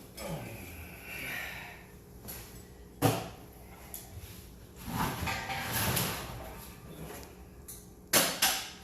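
Handling noises while working on a water heater install: a sharp knock about three seconds in, a longer scraping slide around the middle, and another sharp knock near the end.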